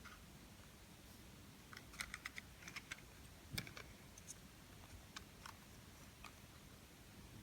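Faint light clicks and taps of a small plastic N gauge model coach being handled. A quick run of them comes about two seconds in, then a few scattered ticks, over near silence.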